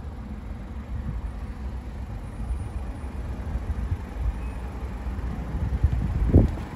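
SEAT Arona's 1.0 TSI three-cylinder petrol engine idling with a steady low rumble. A single low thump comes near the end.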